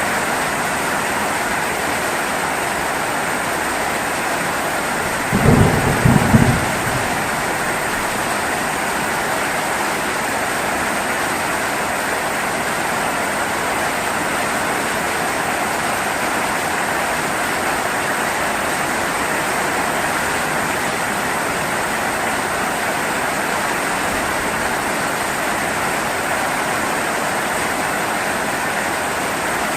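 Steady rain hissing without a break, with a short, low clap of thunder about five seconds in, the loudest sound.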